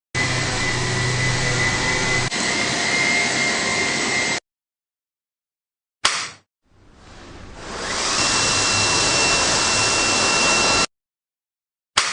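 Redroad cordless stick vacuum cleaner's motor running with a steady high whine, which stops abruptly about a third of the way in. After a pause it starts again, the whine rising as the motor spins up over about a second. It then runs steadily until it cuts off near the end.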